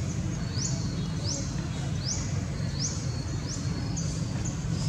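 A bird's short, high call repeated steadily, about one every three-quarters of a second, over a steady low rumble of background noise.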